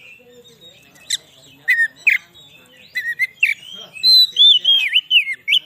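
Oriental magpie-robin (kacer) singing. A few separate sharp whistled notes come first, then about halfway through a quick run of loud, slurred whistles that swoop up and down.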